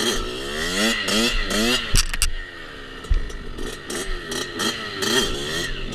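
Small off-road engine revving hard, its pitch sweeping up and dropping again several times as the bike or quad accelerates and shifts. There are a couple of sharp knocks about two seconds in.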